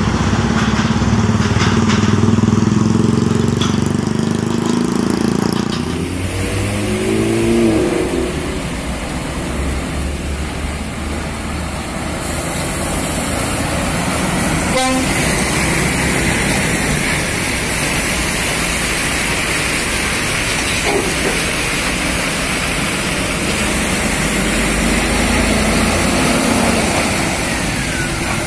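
Scania truck's diesel engine running loud and low as it goes by during the first six seconds, with a brief shift in pitch as it passes. After that comes steady road traffic noise.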